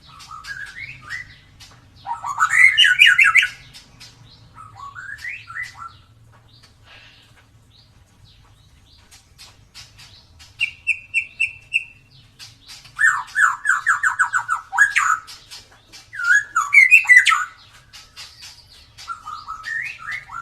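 White-rumped shama (murai batu) singing loud, varied whistled phrases with short pauses between them. Midway there is a quick run of repeated notes, then a fast, rapid trill.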